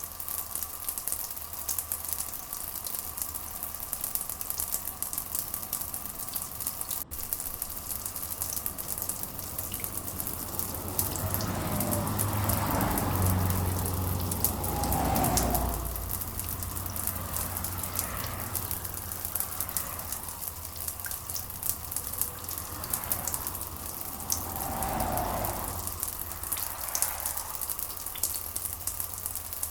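Steady rain pattering densely, with two low rolls of thunder: a louder one building about eleven seconds in and fading by sixteen, and a softer one around twenty-five seconds.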